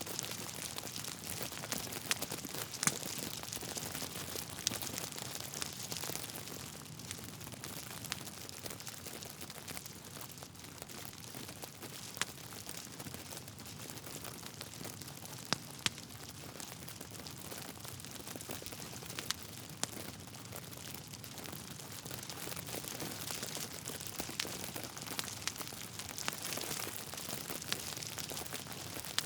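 Wood fire crackling: a steady hiss of burning logs with scattered sharp pops and snaps.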